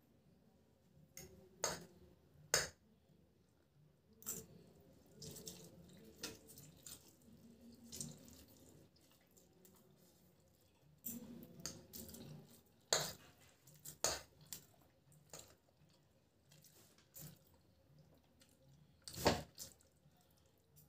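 Close-up eating of chow mein noodles with forks: wet slurping, chewing and mouth sounds, broken by sharp clicks, the loudest near the end.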